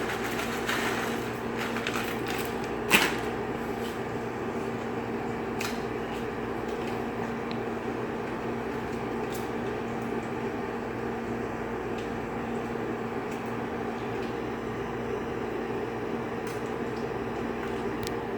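A steady mechanical hum from a kitchen appliance, with a few light clicks in the first couple of seconds and a sharp knock about three seconds in.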